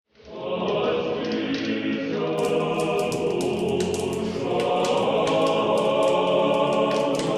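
A choir singing held chords, fading in quickly at the start after silence.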